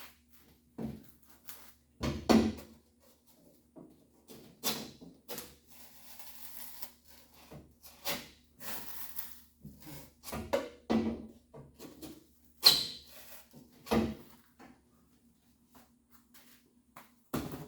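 Irregular knocks, clunks and scrapes of hand-tool work on a car body, several sharp hits standing out among them, with a faint steady hum underneath.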